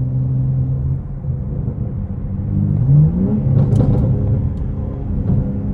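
BMW G80 M3's twin-turbo inline-six running through an IRL single-pipe exhaust with the valve open, heard from inside the cabin: a steady engine note that rises in pitch about three seconds in as the car accelerates, then settles.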